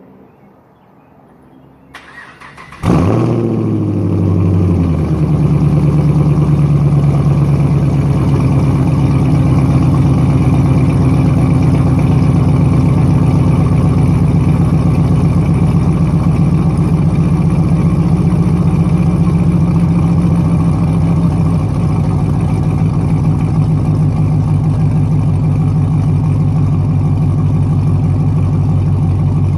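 2015 Chevrolet Camaro SS 6.2-litre V8 with Kooks long-tube headers, high-flow cats and an MBRP muffler delete, cranking about two seconds in and catching with a loud flare a moment later. It then settles into a steady, loud idle that drops a step after a couple of seconds.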